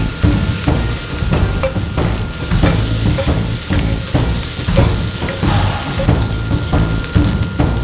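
Fried rice stir-frying in a hot pan: a steady sizzle with a spatula scraping and tossing the rice in repeated strokes, about two a second.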